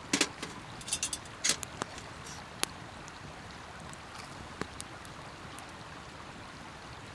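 Wood campfire crackling: a quick cluster of sharp pops in the first two seconds, then scattered single pops over a steady hiss.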